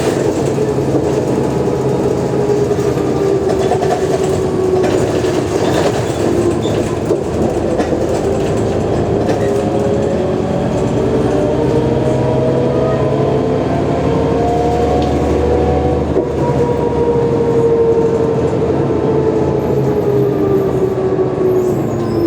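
Mercedes-Benz O345G articulated bus under way, its engine running with a steady low drone. A whine climbs in pitch through the middle as the bus gathers speed and falls away near the end.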